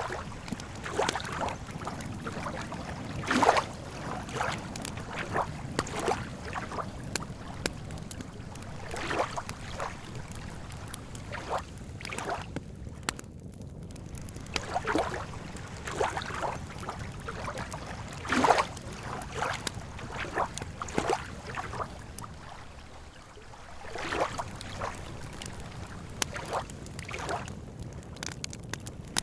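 Wood campfire crackling with irregular snaps and pops, two of them louder, about three seconds in and again past the middle, over a steady low rumble.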